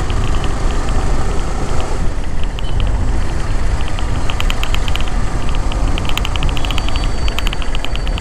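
Yamaha R15 V4 motorcycle's 155 cc single-cylinder engine running steadily at low city speed, about 35 to 40 km/h, with a continuous low rumble of engine and road noise.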